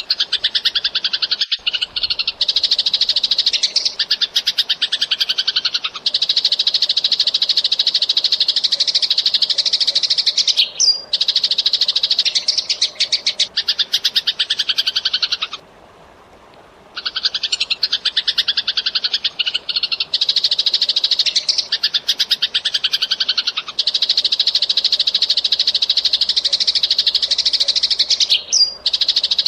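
Eurasian tree sparrow chattering fast and without let-up, a tight, rapid stream of high chirps, with a pause of about a second roughly halfway through.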